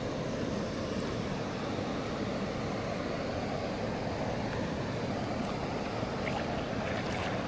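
Steady rush of flowing river water, with a few faint ticks near the end.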